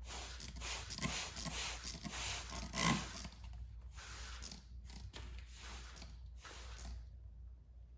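Aerosol can of clear gloss spray hissing, held on for about three seconds and then fired in several short bursts, with a brief louder sound about three seconds in.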